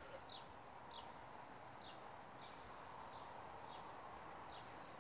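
Faint outdoor quiet with a small bird's short, high chirps repeating about once or twice a second.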